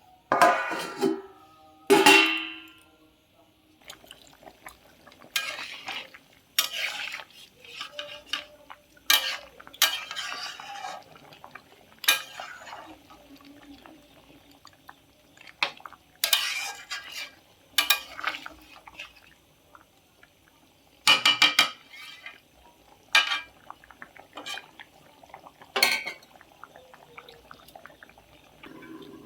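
Metal spoons and pots clanking and scraping together in irregular, sharp knocks, some of them ringing briefly; the loudest come near the start and as a ringing pair about two-thirds of the way through.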